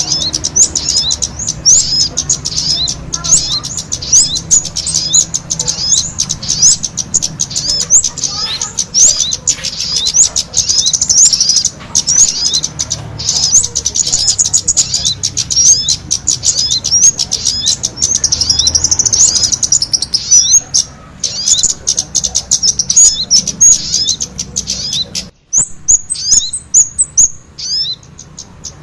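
Bird-lure recording of small birds' calls, a mix of sogon and kemade calls played to attract birds: a dense, fast stream of high chirps, several a second, broken by a short pause near the end.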